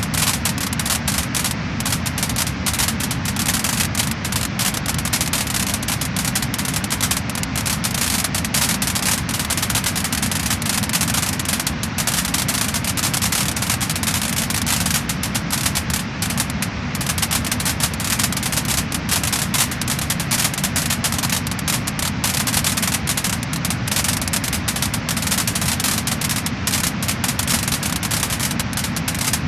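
Wood fire burning in a fireplace, crackling and popping in a dense, continuous run of sharp snaps over a steady low rumble.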